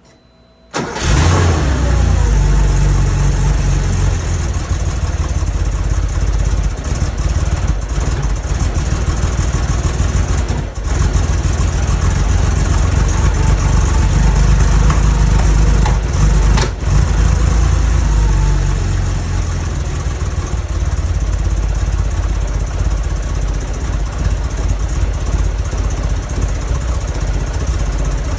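Porsche 911SC's air-cooled flat-six starting abruptly about a second in, then running roughly with two brief stumbles around 11 and 17 seconds in. The rough running is put down to vacuum leaks.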